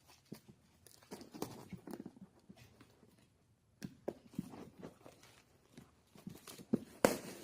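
Wrapping on a model airplane kit box being cut and torn open by hand: irregular crackling, rustling and tearing with scattered clicks, and a sharp louder click near the end.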